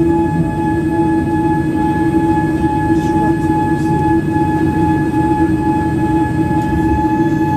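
Boeing 787-8 jet engines running steadily, heard from inside the cabin: a deep rumble under a few constant whining tones.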